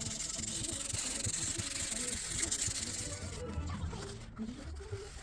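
A steady high spraying hiss that stops suddenly a little over three seconds in.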